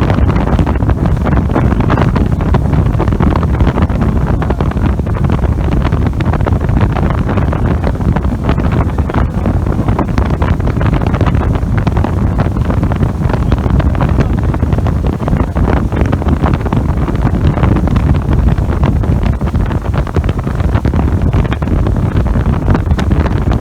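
Loud, steady wind rush buffeting the microphone aboard a motorboat under way, with the hull's water noise and motor blended into it.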